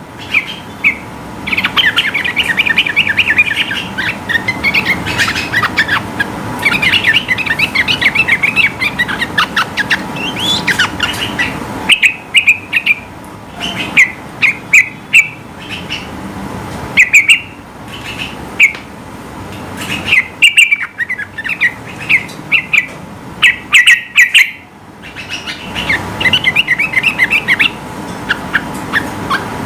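Yellow-vented bulbul (trucukan) singing in fast, chattering phrases of quick chirps, at times breaking into short loud bursts with brief pauses between them. A faint steady tone runs underneath.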